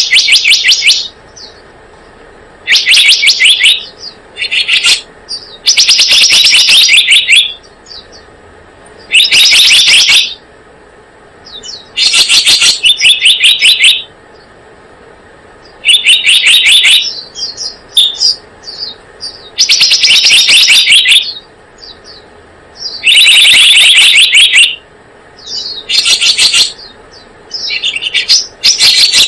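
Bird lure-call recording of the bird known in Indonesia as selendang biru: loud bursts of rapid chattering chirps, each lasting a second or two and repeating every couple of seconds, with fainter single chirps in between.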